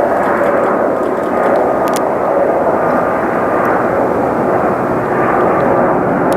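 Jet airliner's engines running at high power close by: a loud, steady rushing noise with a faint whine running through it.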